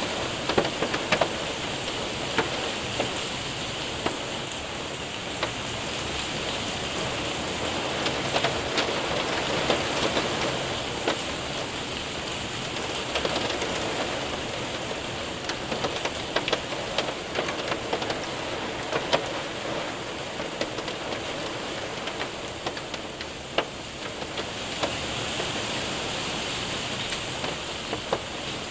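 Heavy rain mixed with hail hitting a window and roof: a steady rushing hiss with sharp ticks and taps of hailstones scattered irregularly throughout.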